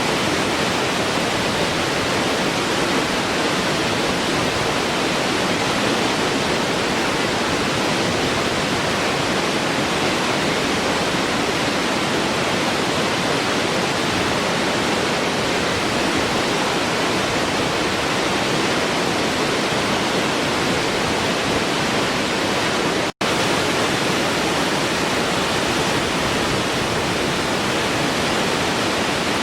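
Waterfall: water falling and rushing in a steady, even roar of noise. It cuts out for an instant about three-quarters of the way through.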